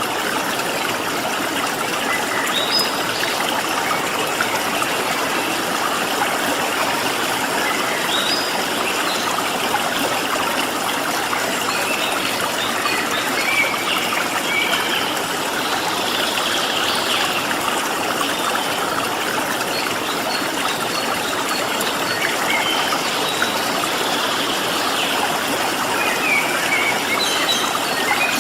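Water running in a stream, a steady rushing flow, with wild birds chirping in short scattered calls throughout.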